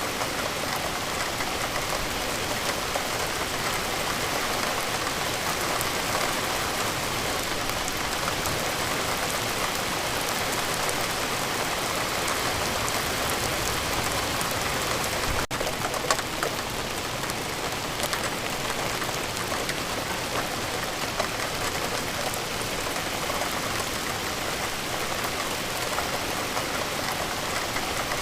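Steady rain falling, a dense even patter of drops. About halfway through there is a momentary break with a click.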